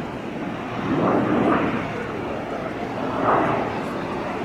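Jet airliner engine noise across the airfield: a steady rushing sound that swells about a second in and again just past three seconds.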